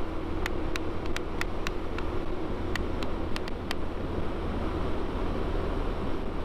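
Yamaha Vino 125 scooter's single-cylinder engine running steadily at road speed under heavy wind noise on the microphone. About ten sharp ticks come in the first four seconds.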